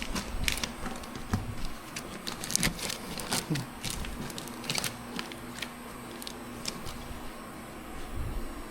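Irregular clicks and light knocks of a vacuum-compressed clothes bag being handled and pushed into a motorcycle saddlebag, most of them in the first five seconds.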